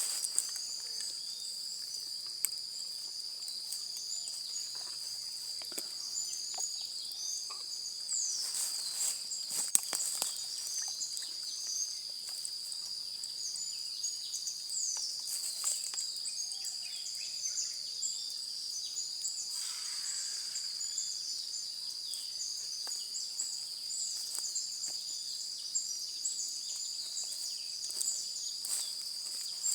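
A steady high-pitched insect drone with many short chirps above it, and scattered light clicks and knocks.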